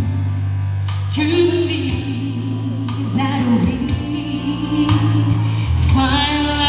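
Music: a woman singing a melody with vibrato over a backing track with a steady, heavy bass line.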